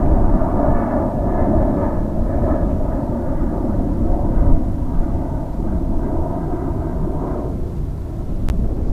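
Jet airliner engines close by: a loud, deep rumble with a buzzing band of tones above it that fades about seven and a half seconds in, leaving the low rumble.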